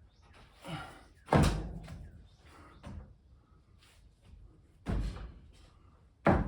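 Three heavy knocks, about a second in, near five seconds and just before the end, with a few fainter knocks between, from work on a steel yoke fitted around a wooden joist.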